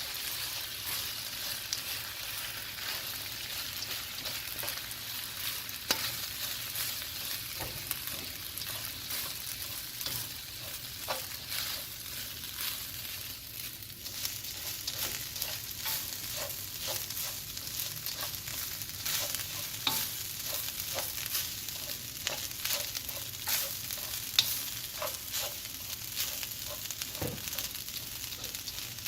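Rice frying in a hot wok: a steady sizzle with frequent scrapes and clicks of a utensil stirring it.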